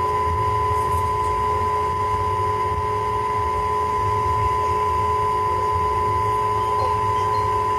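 Train running slowly, with a low rumble and a steady whine held on two unchanging pitches.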